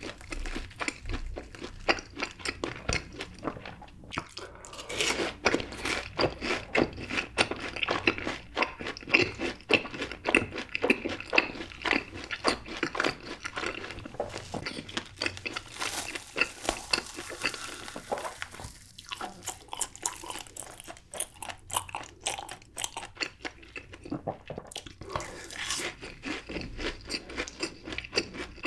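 Close-miked eating sounds: bites into crisp fried cheese balls and steady crunchy chewing of the fried coating, many small crackles with an occasional louder bite.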